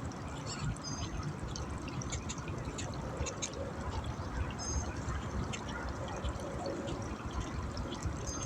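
Outdoor ambience by a river: a steady low rumble of wind on the microphone, with scattered short high bird chirps and small ticks.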